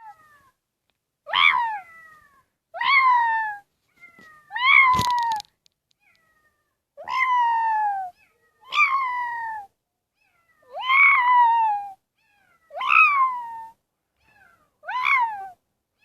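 A cat meowing over and over, about eight meows, each sliding down in pitch, with a sharp click about five seconds in.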